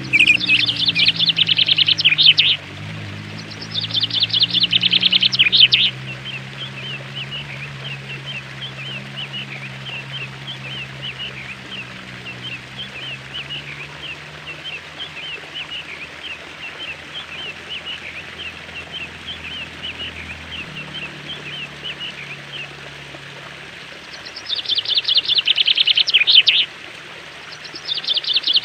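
Songbirds singing: loud, rapid trilling phrases about two seconds long near the start, around four seconds in and twice near the end, with a steady run of quick repeated chirps in between. A low steady hum sits underneath and fades out about twenty seconds in.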